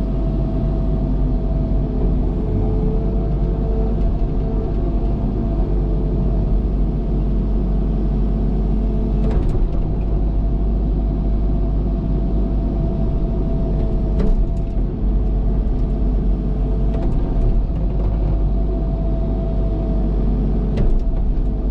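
Cat excavator's diesel engine running steadily under working load, with a few sharp knocks and clanks spread through.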